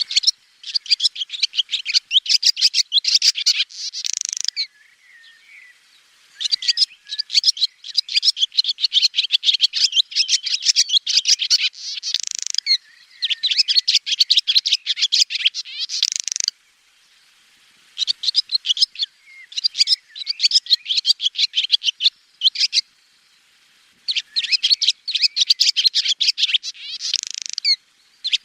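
Swallow song: fast, high twittering and chattering in phrases a few seconds long with short pauses between them. Several phrases end in a brighter, drawn-out note.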